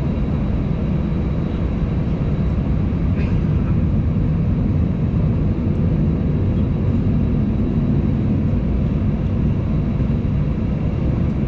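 Steady cabin drone inside an Airbus A320 holding short of the runway, its engines idling under the rush of the air conditioning.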